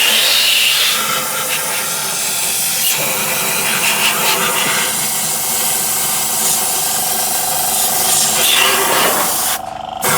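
A loud, steady hiss that stops briefly near the end and then starts again.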